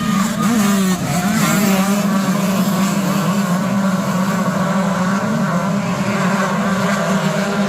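Motocross bike engines running and revving, several pitches rising and falling at once over a steady low drone, with a brief dip about a second in.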